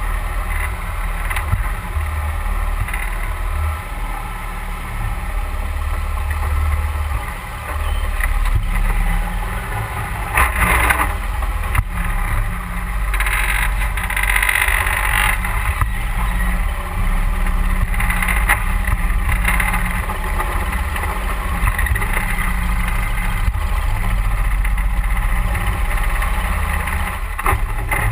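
31 hp Mud Buddy Hyperdrive surface-drive mud motor running steadily under way, pushing a boat up a creek. A few short surges of rushing noise and a couple of sharp knocks come and go over it, loudest about halfway through.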